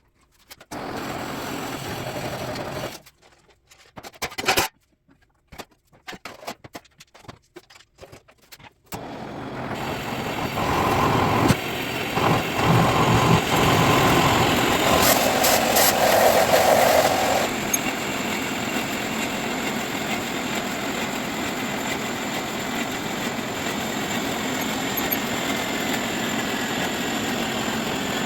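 Audi S8 plus 4.0T V8 engine, converted to a single turbo, starting and idling. After several seconds of brief, broken-up sounds, the engine runs continuously from about nine seconds in. It is louder and busier for several seconds, then settles to a steady idle about two-thirds of the way through.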